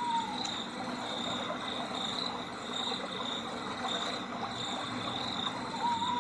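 Insects chirping in a steady high trill that pulses about twice a second, with a short falling call at the start and again near the end.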